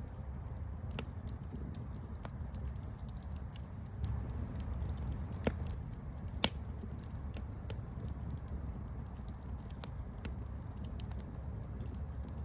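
Campfire burning with a steady low rumble and scattered sharp crackles and pops of wood, the loudest two pops about five and a half and six and a half seconds in.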